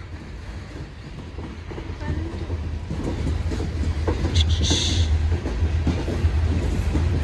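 Freight cars of a slow coal train rolling past, a low rumble growing louder with wheels clicking over the rail joints. A brief hiss about four and a half seconds in.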